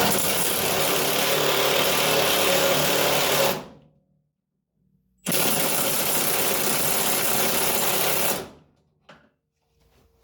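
A handheld power tool run twice on the trigger: about three and a half seconds, a short pause, then about three seconds more, each burst starting and stopping abruptly.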